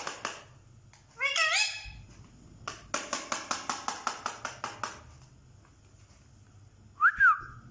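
Parrot mimicking a cat's meow: one bending, wavering call, then a quick run of short clipped pulses at about five a second. A brief high squeak comes near the end.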